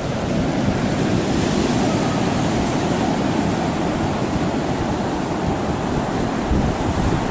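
Heavy storm surf from Hurricane Sandy pounding the beach, mixed with strong wind buffeting the microphone in a steady, dense rush of noise.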